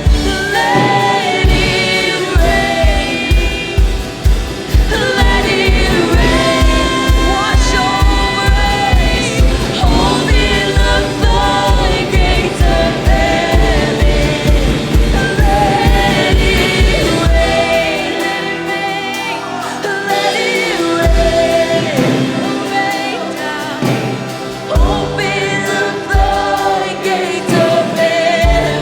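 Live contemporary worship music: singers with a band, the kick drum on a steady beat that drops away about eighteen seconds in, leaving the voices over the keys and scattered drum hits.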